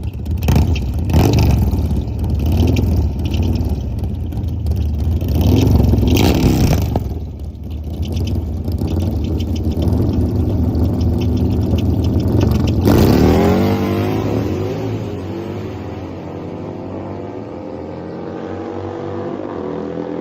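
Harley-Davidson motorcycle V-twin engine revving hard under full-throttle acceleration, the pitch climbing and dropping with gear changes. About two-thirds of the way in the sound changes abruptly and drops in level to a quieter, slowly rising engine tone, the moment the engine blows up.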